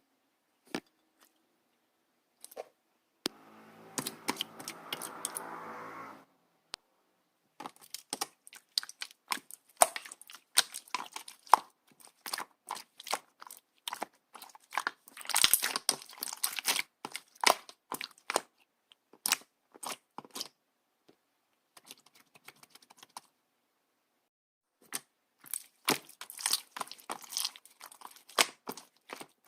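Clear slime being squeezed, poked and stretched by hand, giving rapid irregular wet clicks and pops. There is a drawn-out squelch about four seconds in, and the clicking thins out briefly past the twenty-second mark.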